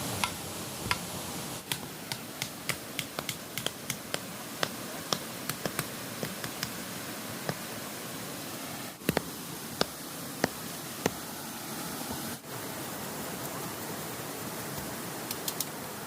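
Steady rush of river water, with irregular sharp clicks and taps over it, roughly one or two a second and thinning out after the first ten seconds or so.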